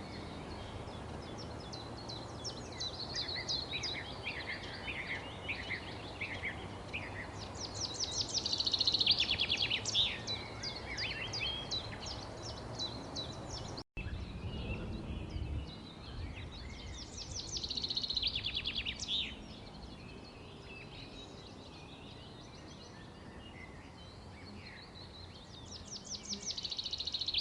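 Wild birds chirping and giving fast trills over a steady low background noise, with the loudest bursts of trilling about a third of the way in, again past the middle, and at the end. The sound drops out for an instant about halfway through.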